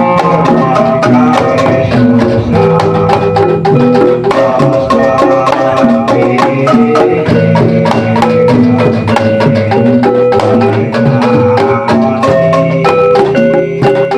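Javanese gamelan ensemble playing a jathilan piece: struck metal keyed instruments ringing out a stepping melody over rapid, continuous drum strokes.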